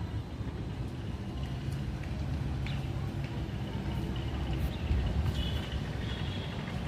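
Outdoor ambience: a low steady rumble with faint high chirping and a few light clicks.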